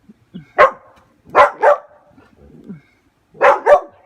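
Dog barking: five sharp barks, a single one, then a pair, then after a pause another pair.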